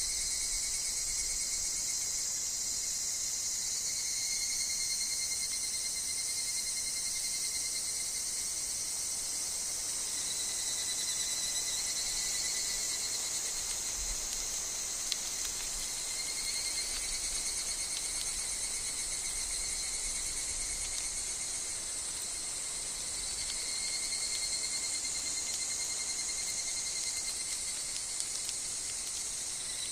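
Insects calling in a steady, high-pitched chorus, with a thinner, lower trill that fades in and out.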